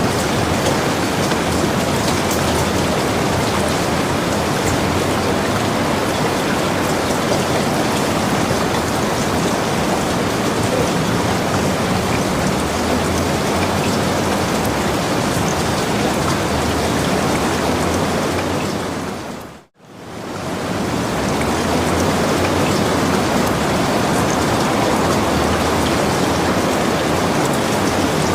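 Steady, heavy rain falling, a dense even hiss of drops. About two-thirds of the way through it fades out to silence for a moment and swells straight back in.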